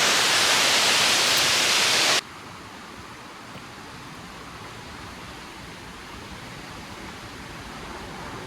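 Steady rushing roar of a large waterfall, Multnomah Falls, full of hiss. About two seconds in it drops abruptly to a much quieter, duller rush of water.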